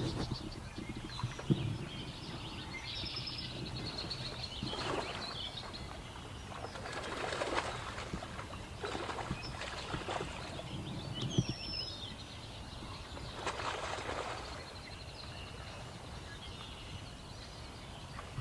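Fish splashing and thrashing at the surface among lily pads in a pond, several separate splashes, with small birds chirping in the background.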